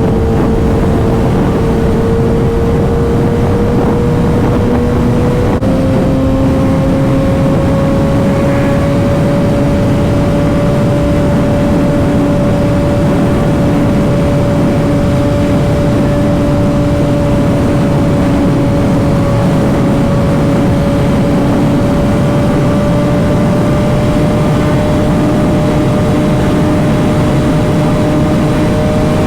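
Motorcycle engine running at a steady cruise under a dense rush of wind and road noise, its pitch creeping slowly upward with a small jump about five and a half seconds in.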